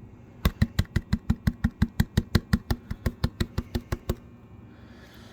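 Rapid, even tapping: about six sharp strikes a second for about three and a half seconds, each with a short ringing note. It stops suddenly about four seconds in.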